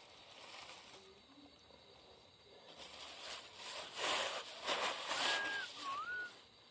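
Bonfire catching: crackling and rushing that builds about halfway through and is loudest a little later. Near the end come a few short whistled notes that slide up and down.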